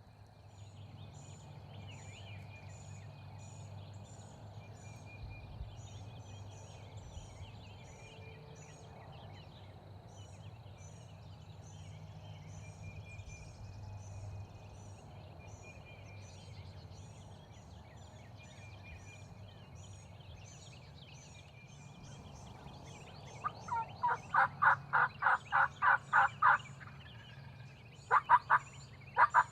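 Songbirds chirping over a low steady hum. About 23 seconds in, a loud run of about ten wild turkey yelps, roughly four a second, and another run begins near the end.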